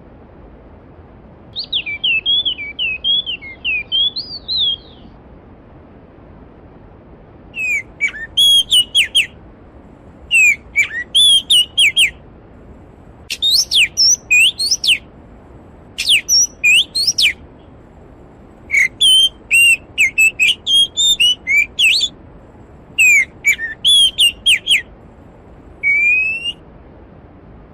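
A songbird singing loud, sweeping whistled phrases: a twittering warble near the start, then a phrase every couple of seconds. The steady rush of a valley stream runs underneath.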